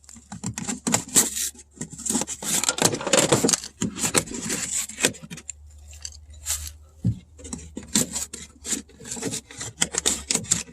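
Irregular clicks, scrapes and rattles of a factory door speaker being pried and worked loose from its mount in a car door by hand.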